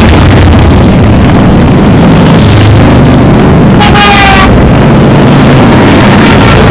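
Parade of motorcycles passing at close range, their engines running loud and steady, with a short horn honk about four seconds in.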